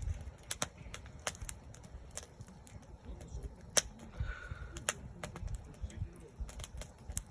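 Wood campfire crackling, with sharp irregular pops a few times a second over a low rumble. A faint short tone sounds a little past the middle.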